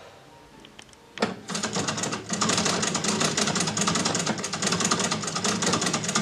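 1913 Singer treadle sewing machine, running unthreaded and driven by its foot treadle: a click about a second in, then a fast, even mechanical clatter that gets louder as the treadle gets going and keeps a steady pace.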